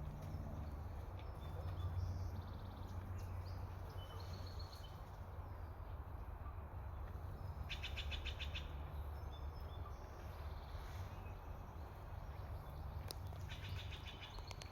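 Steller's jay calling twice, each call a quick run of notes lasting about a second, one in the middle and one near the end, over a steady low rumble.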